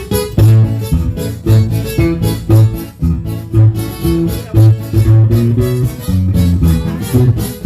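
A live guitar trio playing an instrumental passage: plucked guitar notes in a steady rhythm over a bass line.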